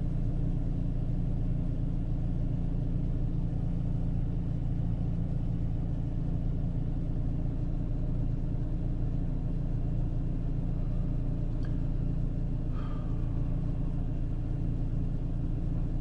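Renault Clio III's 1.2-litre four-cylinder petrol engine, converted to LPG, idling with a steady low rumble. The owner says it still has a misfire, which he is pretty sure comes from bad LPG. A faint click sounds about 13 seconds in.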